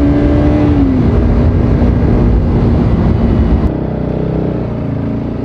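Bajaj Pulsar RS 200's single-cylinder engine running as the motorcycle is ridden, its note climbing slightly and then dropping about a second in, over heavy wind rumble on the microphone. A few seconds later the sound abruptly becomes quieter.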